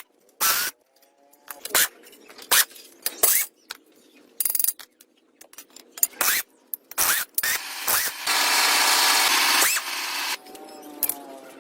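Workshop tool noises: scattered knocks and scrapes, with a power tool running for about a second and a half a little past two-thirds in.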